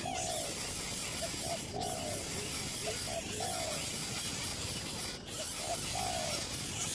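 A bird giving short falling calls, repeated about every second and a half, with small shorter notes between them, over a steady hiss.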